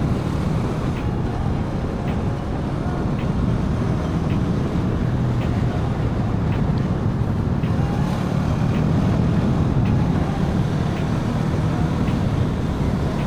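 Motorcycle riding on a road: a steady low engine drone with wind and road noise, picked up by a microphone inside the rider's helmet.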